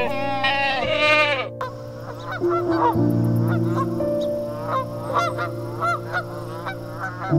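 A goat bleating until about one and a half seconds in, then Egyptian geese calling in a quick run of short, hoarse honks, over piano music.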